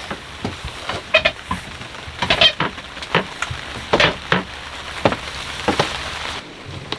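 Wet squishing and clinking of hands working pumpkin seeds out of the stringy pulp, a dozen or so irregular sounds over a steady hiss that stops near the end.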